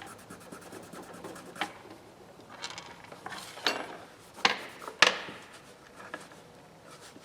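Scraping and rubbing at a screwdriver's plastic handle to get stubborn paint and grime off, with a few sharp knocks or clicks, the loudest about five seconds in.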